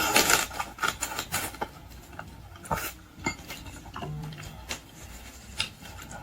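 Utensils and dishes clinking and knocking while eating. The clatter is busiest in the first second and a half, then comes as scattered single knocks.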